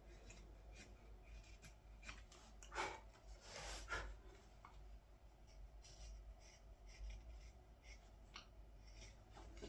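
Faint carving-knife cuts into green wood: short, scattered slicing strokes, the longest about four seconds in.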